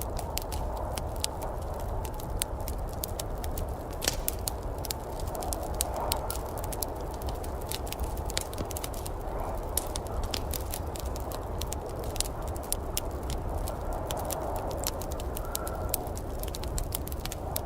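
Wood fire crackling in a fireplace, with frequent irregular sharp pops over a steady low rumble and a soft noise that swells and fades.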